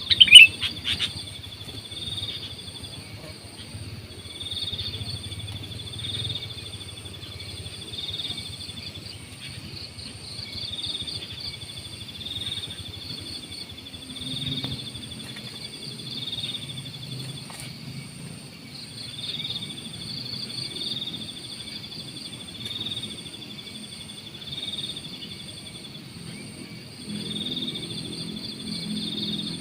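Sooty-headed bulbul (kutilang) calls repeating about every two seconds over a steady high-pitched insect drone, with a loud, sharp call right at the start.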